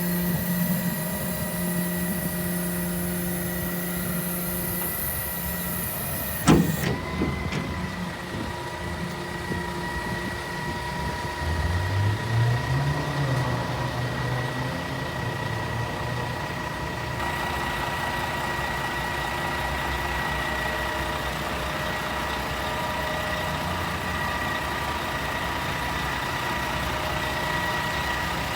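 Truck idling with a steady whine while its hydraulic power tail is operated. A single loud clunk comes about six and a half seconds in, and a low motor sound rises and falls in pitch around twelve seconds in.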